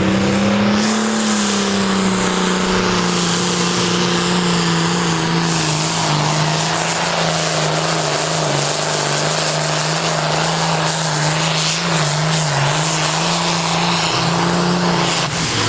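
Pulling tractor's engine at high, nearly steady revs through a pull, its note rising briefly about a second in and then holding a little lower with small dips. It cuts off suddenly near the end.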